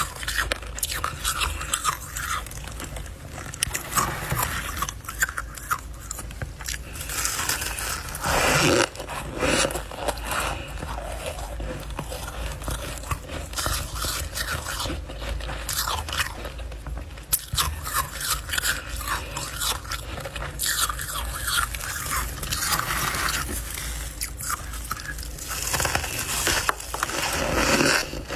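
Close-miked biting and chewing of refrozen freezer frost: a dense run of crisp crunches, crackles and scrapes, with louder stretches of crunching about eight seconds in and near the end.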